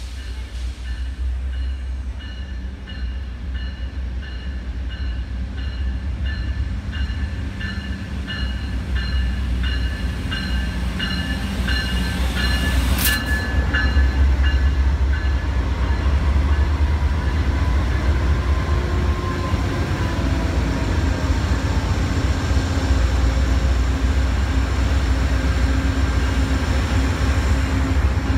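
Amtrak passenger train running into the station. A bell rings at an even beat through the first half as the train approaches. A sharp clank comes about halfway through, and then the rumble of the diesel locomotive and cars swells and stays loud as they pass close by.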